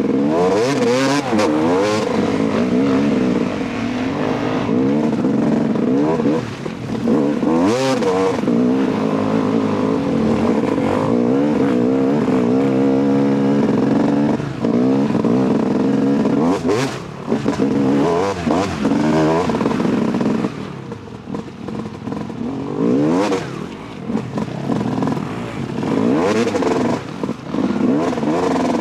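Dirt bike engine revving hard and easing off over and over while riding through mud, its pitch sweeping up and down. There is a quieter, lower stretch about two-thirds of the way through.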